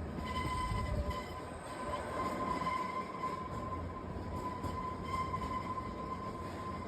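Kalka–Shimla narrow-gauge toy train running on the track: a steady rumble of the wheels and carriages with a continuous high-pitched whine of wheels squealing on the rails.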